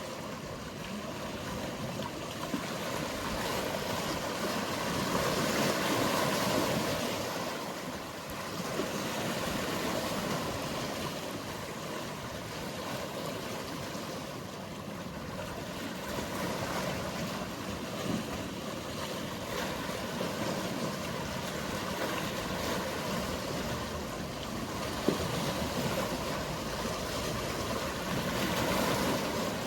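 Sea waves washing in, a steady hiss of water that swells and ebbs every few seconds. A single short click comes about 25 seconds in.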